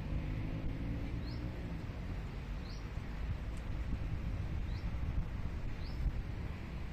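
A bird repeating a short, high, upward chirp about every one to two seconds, over a steady low outdoor rumble.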